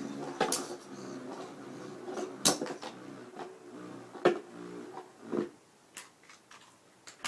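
Metal Fight Beyblade tops spinning in a plastic stadium, a steady whirring hum broken by sharp clacks as they collide. The hum fades out over the last couple of seconds as the tops wind down.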